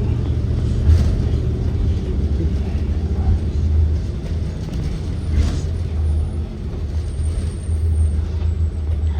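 Ride noise inside a 2023 Blue Bird Vision school bus under way: its Ford 7.3L V8 engine running with a steady low drone over road rumble.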